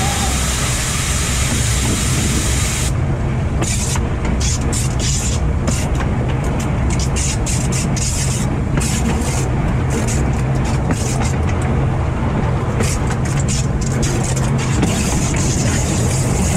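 Train running steadily along the track, heard from the front of the train: a continuous low rumble with wind noise on the microphone.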